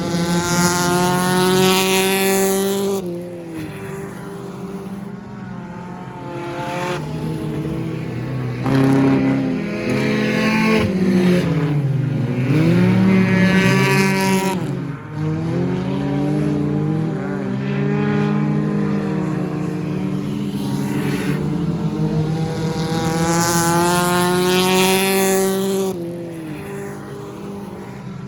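Stock car engines at racing speed, several cars passing close by one after another, the pitch of each dropping as it goes past. The loudest passes come right at the start and again a little before the end.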